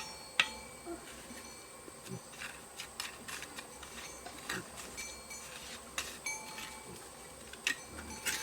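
A steady high insect buzz, with scattered small clicks and knocks a second or two apart.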